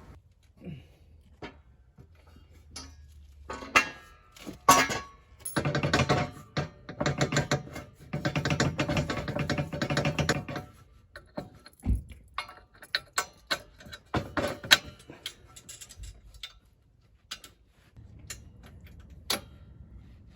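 Metal hardware and hand tools being worked during assembly of an ATV snow plow: scattered clinks, knocks and clicks, with a busier stretch of rapid clicking and rattling lasting about five seconds in the middle.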